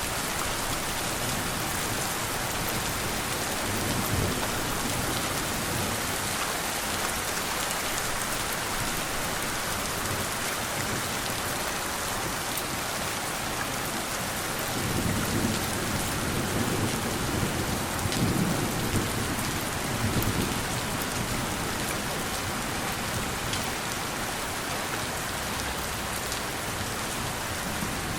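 Steady rain falling on a surface, with a rolling rumble of thunder about halfway through that swells and fades over several seconds.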